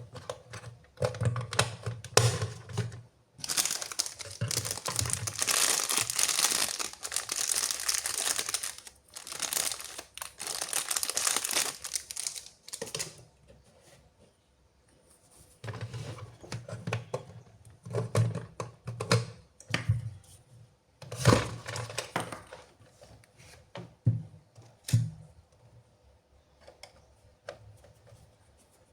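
Toy packaging being handled, crinkled and torn open by hand: a long stretch of continuous rustling and tearing in the first half, then a pause and scattered shorter rustles and knocks.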